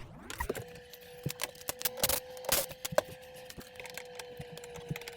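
Cordless drill motor spinning up and then running at a steady speed, backing out the old dishwasher's mounting screws. Sharp clicks and knocks sound over it, the loudest around the middle.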